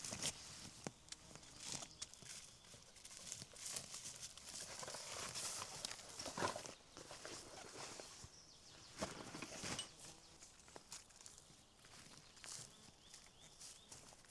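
Irregular crunching and rustling steps through forest-floor litter, with a few sharper snaps of twigs.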